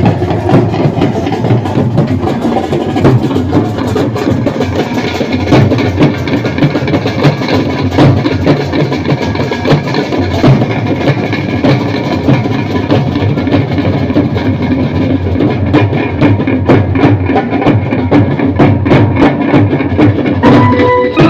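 Band music played loud and without a break: fast, dense drumming over sustained melody lines.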